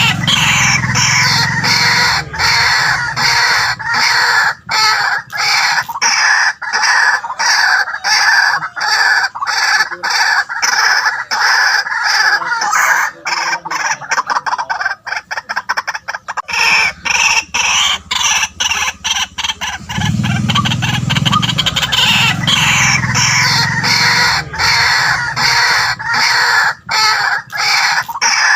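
White-breasted waterhen calling: a loud, continuous run of rapid repeated croaking notes, with deeper grunting notes at the start and again about two-thirds of the way through. This is the call played to lure waterhens.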